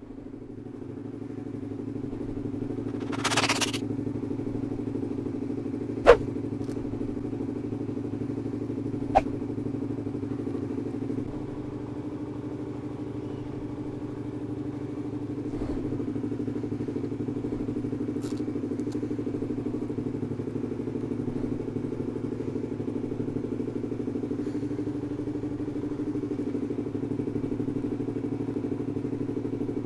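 Suzuki GSX-R150's single-cylinder four-stroke engine running steadily through an R9 Misano aftermarket exhaust, its note shifting slightly a couple of times. Two sharp clicks sound about 6 and 9 seconds in.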